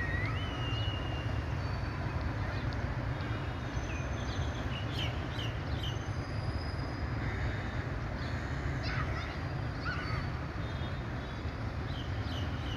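Diesel locomotive of an approaching train heard as a steady low rumble in the distance, with short bird chirps several times over it.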